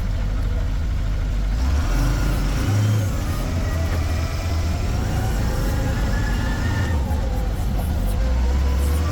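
Vehicle engine running with a steady low rumble and a faint whine that slowly rises and falls in pitch.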